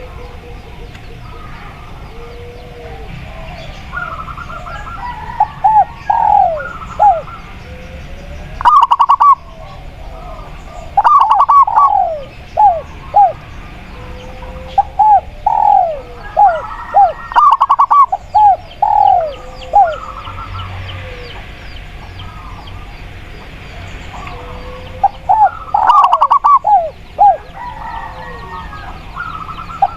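Spotted doves and zebra doves cooing in repeated bouts of short, falling notes every few seconds, over faint chirping from other birds.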